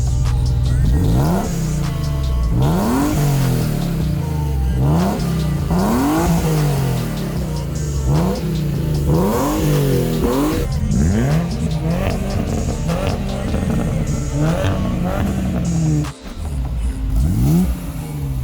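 Car engines revved hard again and again, each rev a quick rise and fall in pitch, about one every second or so, with music playing underneath. The sound breaks off briefly near the end.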